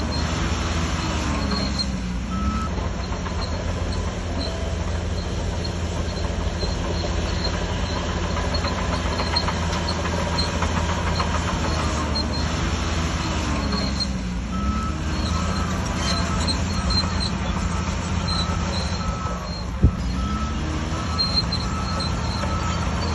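Shantui DH17C3 bulldozer's diesel engine running steadily while working. Its pitch dips and recovers three times, with intermittent high metallic squeaks, and one sharp knock near the end.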